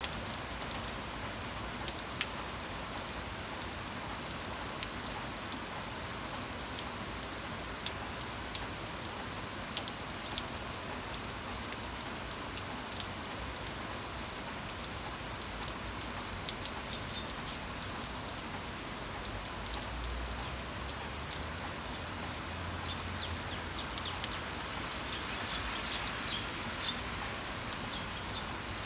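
Steady rain falling, an even hiss thick with the ticks of individual drops striking a surface. A brief low rumble comes about twenty seconds in.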